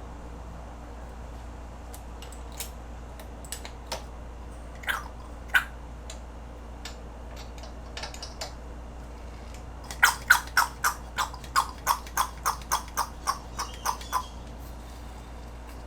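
Scattered sharp clicks and taps from hand work, then about ten seconds in a regular run of about fourteen loud clicks, roughly three a second, lasting some four seconds, over a steady low hum.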